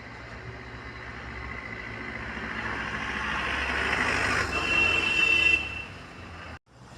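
A vehicle approaching and passing close by, growing steadily louder over several seconds. As it goes by, a high steady squeal sounds for about a second, then the noise falls away quickly.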